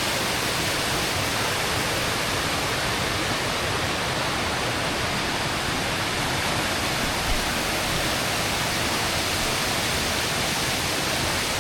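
A waterfall heard close up: a steady, even rush of falling water. There is one brief low thump about seven seconds in.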